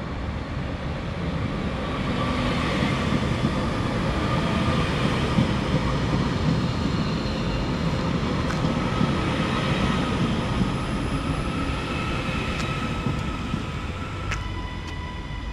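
Class 331 electric multiple unit running past on the rails: a rumble and hiss that swell over the first few seconds and fade toward the end, with a steady whine throughout. A higher, stacked tone starts shortly before the end.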